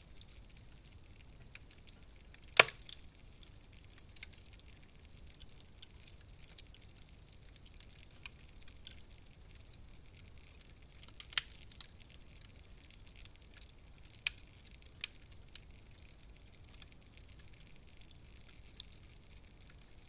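Wood fire crackling in a fireplace: a soft steady hiss with scattered sharp pops, one loud pop about two and a half seconds in and a few more later.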